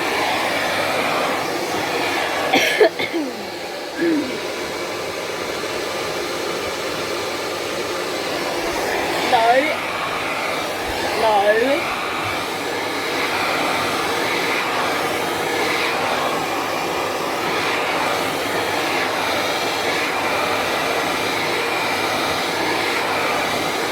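Hair dryer running steadily, with a few short pitched cries over it about three, nine and eleven seconds in.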